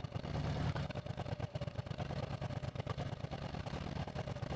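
Harley-Davidson Road Glide's 131-cubic-inch big-bore V-twin running at low revs, with a steady, even pulsing.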